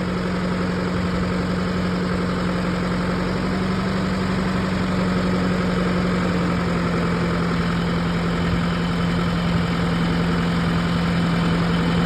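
John Deere tractor's engine running steadily under way, a constant low hum with its pitch dipping slightly about halfway through.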